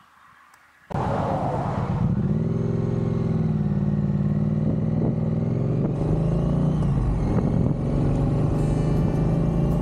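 Triumph Street Twin's 900 cc parallel-twin engine running while the motorcycle is ridden along the road. It comes in suddenly about a second in, its pitch rises briefly about two seconds in, and then it holds steady.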